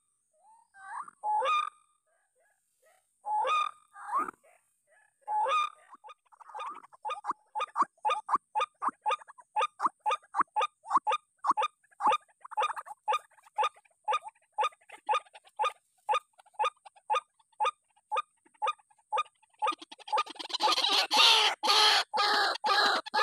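White-breasted waterhen calling: a few separate calls, then a long, even run of short notes at about three a second, becoming louder and denser near the end.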